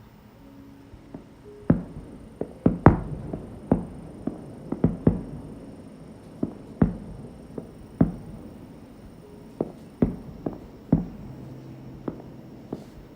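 Fireworks shells bursting in an irregular string of booms, about one or two a second, each dying away with a short echo.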